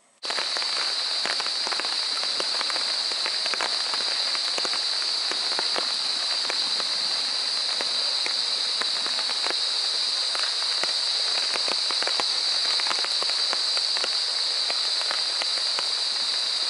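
Steady rain falling, a dense patter of many drops hitting surfaces, with a steady high-pitched hiss over it. It starts abruptly right at the beginning.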